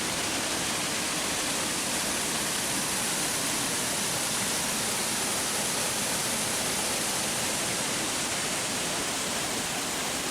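Fast, turbulent water rushing down the rocky cascades of Mae Pan Falls as a steady, unbroken rush.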